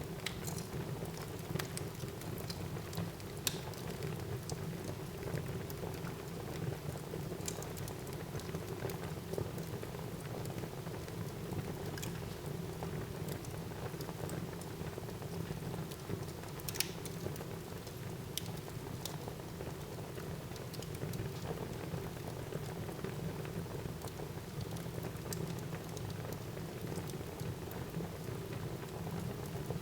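Wood fire crackling in a fireplace: a steady hiss with scattered sharp pops and snaps, the loudest about 17 seconds in.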